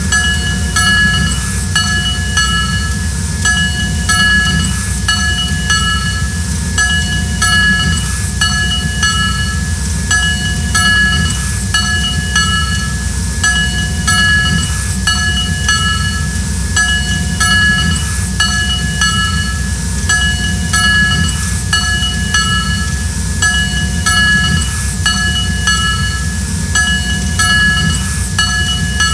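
Train rolling along the track: a steady low rumble under high ringing tones that keep breaking off and coming back every second or so, with a faint tick about every three seconds.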